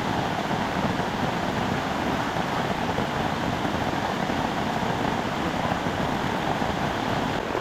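Heavy tropical downpour with strong wind, a dense, steady hiss of rain.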